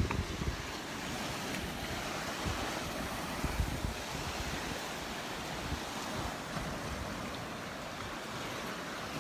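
Surf washing onto a sandy beach as a steady hiss, with wind buffeting the microphone, strongest at the start.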